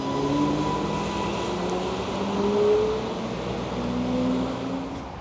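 Transport for Wales Class 230 train (a converted old London Underground D-stock unit) pulling away from the platform, its traction note rising in pitch as it accelerates, then fading as it draws away.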